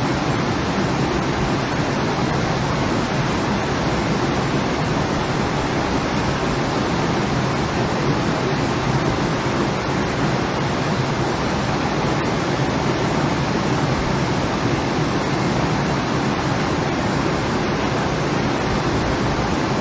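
Steady rushing noise of fast-flowing floodwater, an even wash with no breaks.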